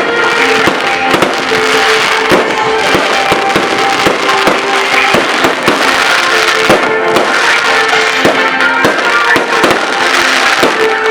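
Fireworks popping rapidly and densely throughout, over loud music with steady held notes.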